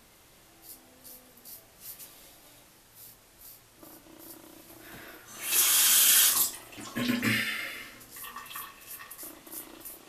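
Bathroom tap running into a sink for a couple of seconds, starting about five and a half seconds in and tapering off with splashing. Before it come a few faint, short sounds.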